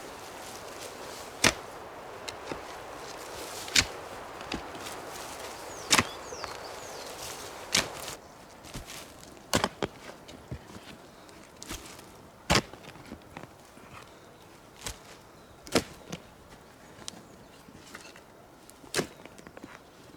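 Axe chopping wood: single sharp strikes every two or three seconds, the early ones loudest, over a steady hiss that fades about eight seconds in.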